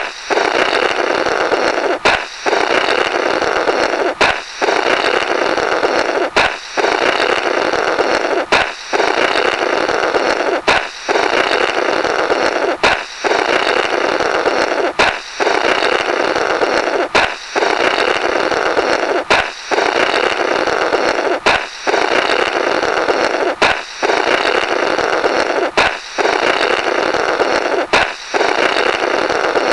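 Looped cartoon sound effect of a balloon popping followed by a comical 'blorrrt' of air blown through the burst balloon's remnants. It repeats about every two seconds: a sharp pop, then a rasping blow of about two seconds, then a brief gap.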